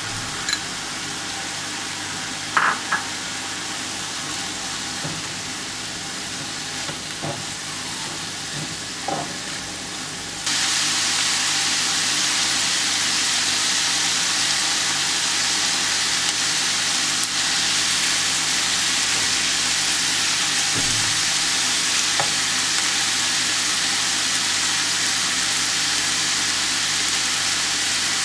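Food sizzling and frying in a hot pan while being stirred, with a few short clinks of a utensil against the pan in the first ten seconds. The sizzle gets suddenly louder about ten seconds in.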